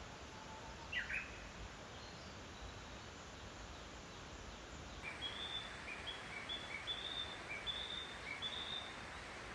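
A bird calling over a faint steady outdoor hiss: two quick falling chirps about a second in, then from about halfway a run of short high chirps, two or three a second, stopping shortly before the end.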